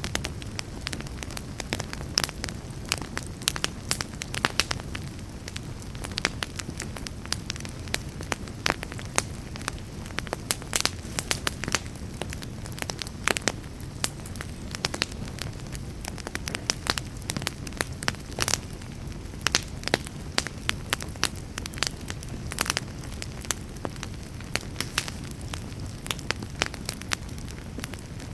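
Wood campfire crackling: irregular sharp pops and snaps from the burning logs, several a second, over a steady low rush.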